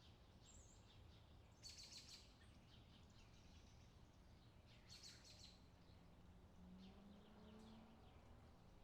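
Faint outdoor summer ambience: birds chirping in short bursts over a steady low background, with louder chirps about two seconds and five seconds in.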